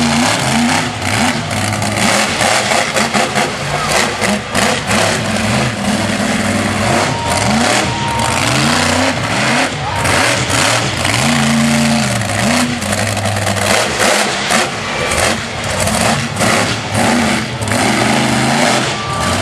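Monster truck engine revving hard again and again, its pitch climbing and falling back several times, over a loud rough noisy wash.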